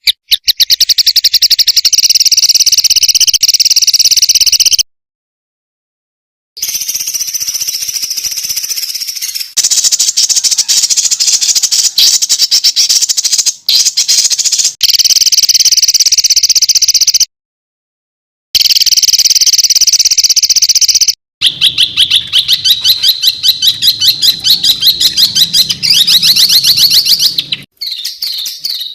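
Songbird song for masteran training: loud, rapid-fire trilled phrases of high repeated notes, several recordings spliced together with abrupt cuts to dead silence between them.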